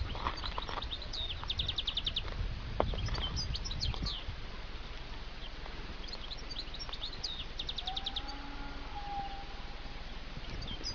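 Small birds chirping and calling, with a fast trill about a second and a half in and another about seven seconds in, over a steady low rumble.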